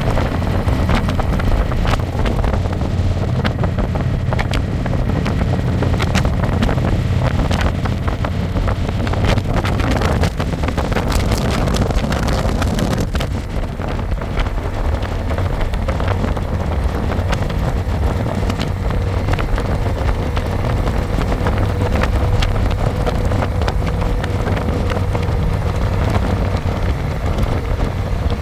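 Wind buffeting the microphone over the steady running of a Harley-Davidson Electra Glide's V-twin engine, recorded from the pillion seat while riding.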